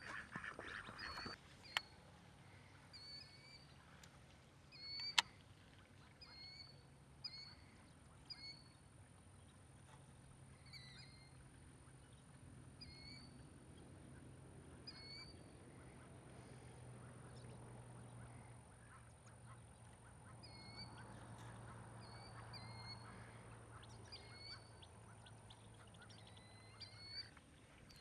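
Ducks calling faintly, short calls repeating roughly once a second, over a low steady hum, with a couple of sharp clicks in the first few seconds.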